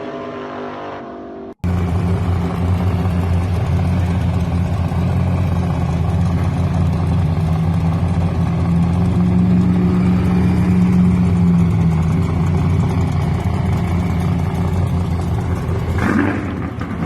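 Loud muscle-car engine running. There is an abrupt cut about a second and a half in, after which a heavier, deeper engine sound runs steadily at a high level, swelling a little around the middle.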